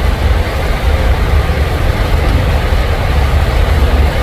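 Steady low rumble of a vehicle engine and road noise, heard from inside the vehicle.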